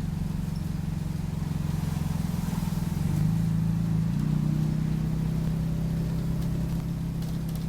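Optare Solo single-deck bus engine running, heard from inside the passenger cabin as a steady low drone. Its pitch steps up about three seconds in and again about a second later.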